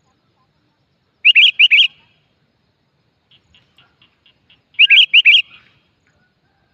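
A decoy bird calling: two short phrases of about three quick, bright chirps each, about a second and about five seconds in, with a run of faint rapid ticks between them.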